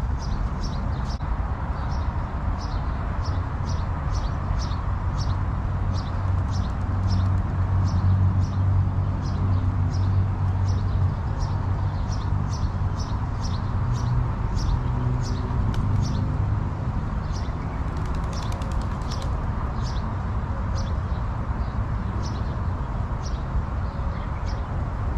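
Steady rush of water falling in a park water feature, with a small bird chirping over it, about twice a second, for most of the time.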